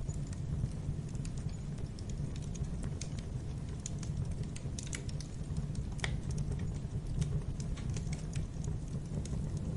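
Wood fire burning in a fireplace: a steady low rumble of flames with irregular sharp crackles and pops, one louder pop about six seconds in.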